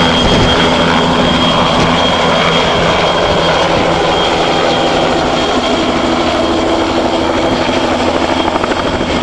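Helicopter just after takeoff, its engine and rotor running loudly and steadily with a thin high whine over the top; the sound eases slightly toward the end.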